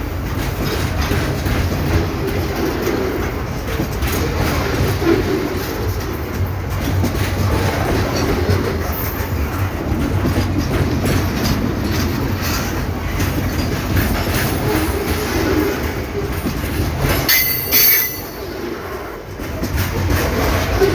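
Train cars rolling past with a steady rumble and wheel clatter, and a brief high-pitched wheel squeal about seventeen seconds in.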